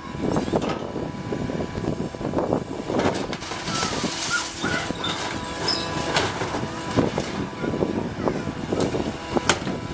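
Heavy machinery working on scrap cars: a steady engine hum under scattered metal clanks and knocks.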